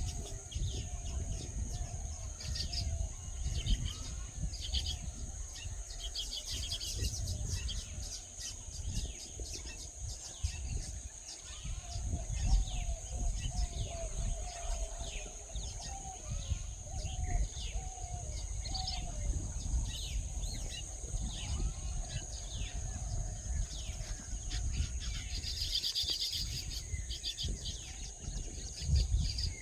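Small birds chirping and twittering in many short, rapid notes, over a steady high-pitched hum and a low rumble.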